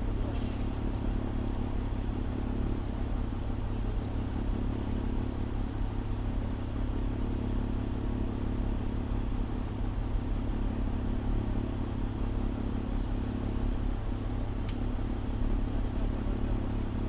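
Fire engine's diesel engine running at a steady speed, heard from inside its cab, a low even drone with one short sharp click about fifteen seconds in.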